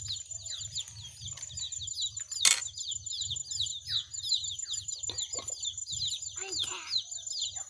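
Small birds chirping rapidly and repeatedly in quick falling notes, with a steady high-pitched pulsing tone behind them. There is one sharp click about two and a half seconds in.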